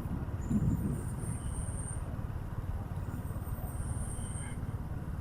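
Motorcycle running at road speed, a steady engine-and-wind rumble, swelling briefly about a second in; faint high-pitched chirps come and go above it.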